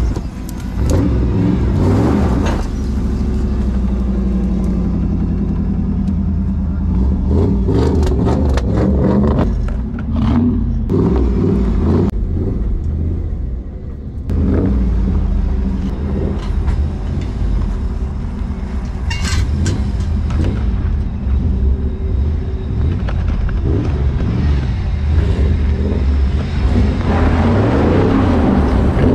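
1994 Pontiac Trans Am's V8 engine running and revving as the car drives, with tyres spinning and crunching on gravel near the end.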